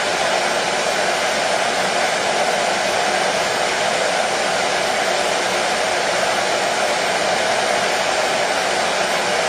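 Hair dryer running steadily, an even airy whoosh with no change in level or pitch, played as soothing white noise for a colicky baby.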